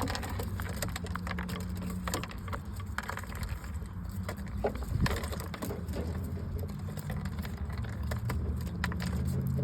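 Pigeons pecking at seed: many scattered sharp clicks and rustling of grain, over a low steady hum.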